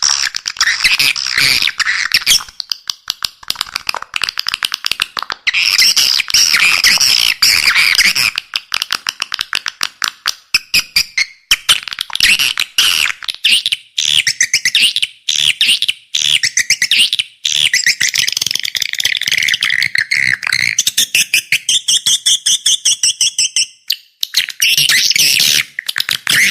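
Recorded edible-nest swiftlet calls: loud, rapid chattering trills in runs of a few seconds with short breaks, and a held whistled note near the end. It is a call sound played to lure swiftlets into a bird house.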